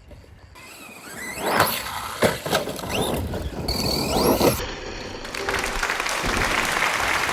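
ARRMA Outcast 1/10 RC stunt truck's brushless motor whining in quick rising and falling sweeps, with sharp knocks and tyre squeals as it is driven hard. After about five seconds a steady noisy hiss takes over.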